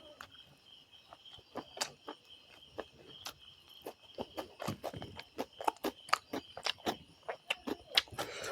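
Close-up eating sounds: chewing with wet mouth clicks and crunches in a quick, irregular run that grows busier in the second half. A faint steady high whine sits behind them.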